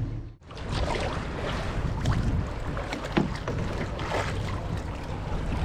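Water splashing and sloshing around a canoe, with irregular light knocks and splashes.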